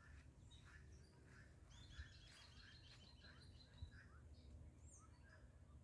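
Birds chirping faintly: a string of short repeated chirps with a quick run of high notes in the middle, over a low rumble.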